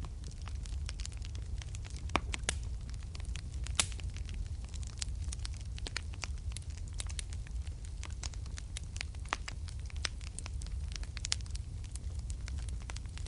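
Wood fire burning in a fireplace: a steady low rumble of flames with frequent irregular crackles and sharp pops, the loudest pops about two and four seconds in.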